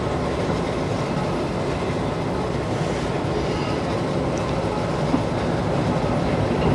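Passenger train carriage running along the track, a steady noise of wheels and carriage on the rails.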